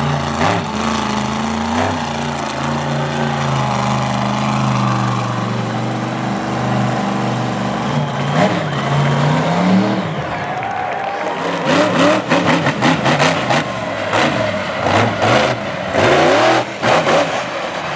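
Monster truck engine revving hard through a freestyle run, its note climbing near the middle. In the second half a rapid string of bangs and clatter comes in over the engine.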